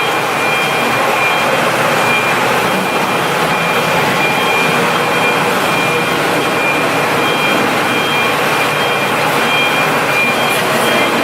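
Steady, loud mechanical running noise with no let-up, with a faint high whine that comes and goes.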